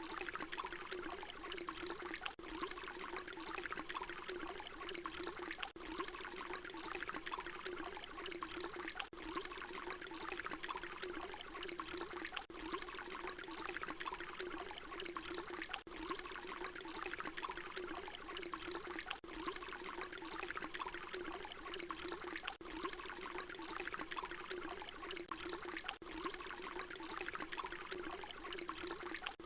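Water pouring in a steady splashing stream. A brief dip about every three and a half seconds marks where the short recording loops.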